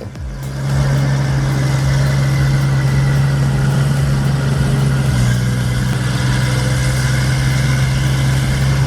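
Diesel engine of a forestry forwarder running steadily while hauling a log load, its pitch dipping slightly about five seconds in.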